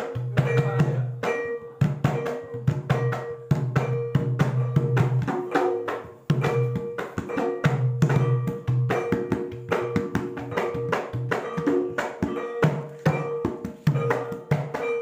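Javanese gamelan music for a kethoprak dance: busy drum strokes and sharp wooden clicks over held, ringing metal notes, in a steady rhythm.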